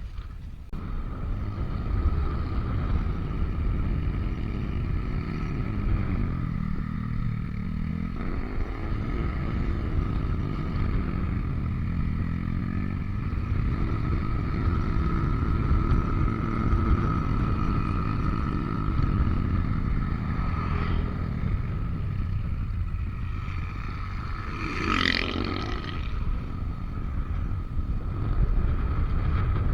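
Yamaha NMAX V3 scooter underway, its single-cylinder engine and drive running steadily under heavy wind rumble on the microphone. A brief high sweeping sound comes near the end.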